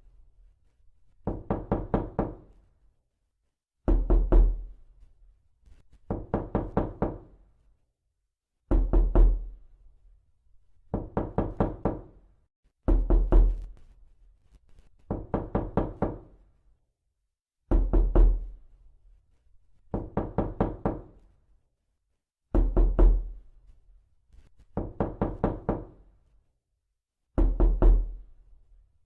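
Repeated knocking in a looping pattern. A group of three or four hard knocks is followed about two seconds later by a softer, quicker run of five or six knocks, and the pair repeats roughly every five seconds.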